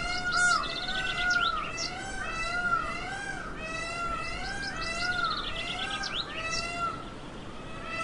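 Birds calling: a continuous run of short, arching, overlapping calls repeated several times a second, mixed with quick higher trills.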